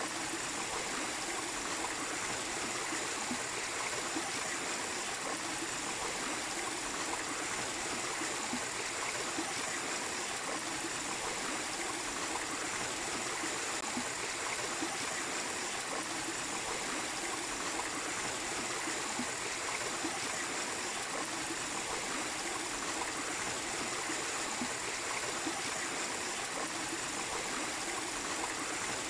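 Mini waterfall and stream water flowing steadily, an even rushing without breaks.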